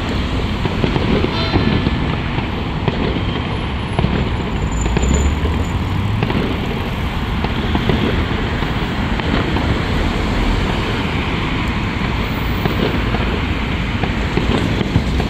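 Many fireworks going off at once in the distance: a dense, continuous crackle and rumble of overlapping bangs, with no single bang standing out.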